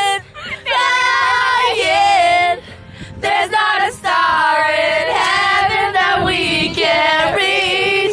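A high voice singing a song's melody with no instruments behind it, breaking off briefly at the start and again about three seconds in.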